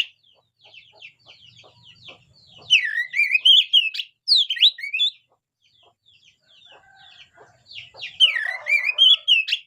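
Oriental magpie-robin (kacer) singing actively: loud bursts of varied whistled notes that glide up and down, with softer chattering notes in the pauses between bursts.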